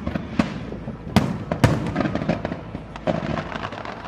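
Aerial fireworks bursting: a string of sharp bangs at uneven intervals, the loudest about a second and a half in, with low rumble and crackle between them.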